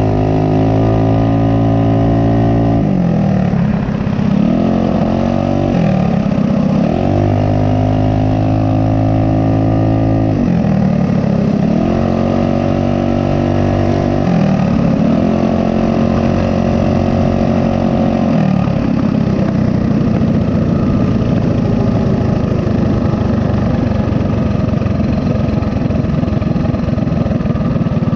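Mini bike's small single-cylinder four-stroke engine running under way, its pitch holding steady, dropping as the throttle eases and climbing back again about four times. Over the last third it settles into a rougher, steadier drone.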